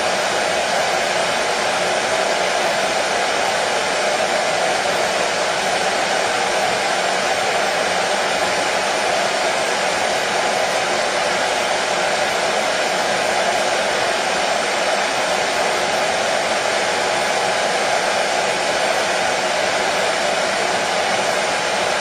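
Hair dryer running steadily, a constant even whoosh of blown air with a faint motor hum, unchanging throughout, as white noise for soothing a baby to sleep.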